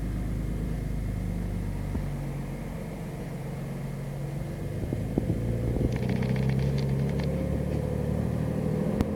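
Unimog SEE tractor's diesel engine running steadily, its note shifting about five seconds in, with a burst of rapid rattling a second later.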